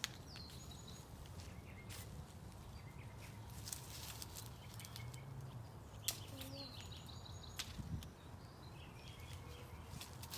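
Quiet outdoor ambience with a low wind rumble, in which a small bird calls twice, each time a falling chirp followed by a few quick notes, about half a second in and again past the middle. A few light clicks are scattered through.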